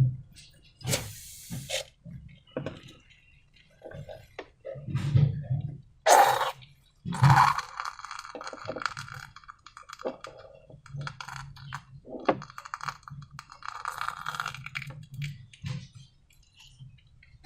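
Hands handling slime, balloons and containers: irregular taps, clicks and short crackling rustles, the loudest a little past the middle.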